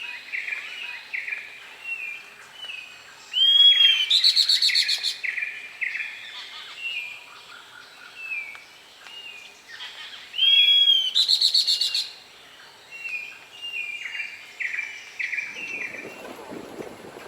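Wild birds calling: a steady run of short, repeated whistled notes, broken twice by a loud, harsh chattering call lasting about a second and a half. A low rushing noise comes in near the end.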